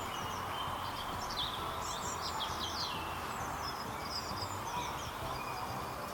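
Small birds chirping and trilling in short, high, falling notes, busiest in the middle, over a steady outdoor background hiss.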